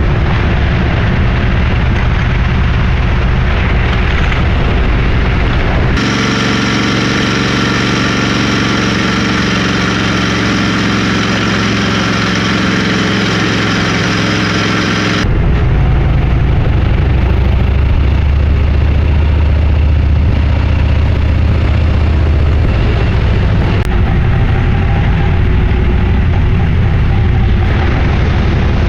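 Motorcycle engine running on the move, loud and continuous. The sound changes abruptly about six seconds in and again about fifteen seconds in, the middle stretch carrying a steady, clearly pitched engine note.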